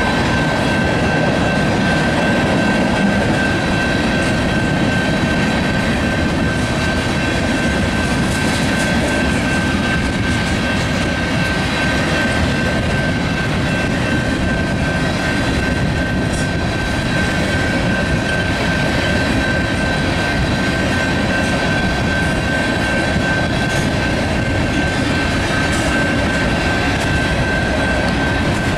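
Freight cars of a mixed train rolling past on the rails, a steady, continuous rumble and rattle of wheels and car bodies with a few faint clunks. A steady high-pitched tone holds over it throughout.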